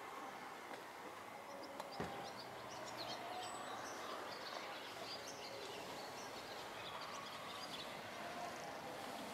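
Outdoor ambience with small birds chirping in quick, short high notes through the middle of the stretch, and a single sharp click about two seconds in.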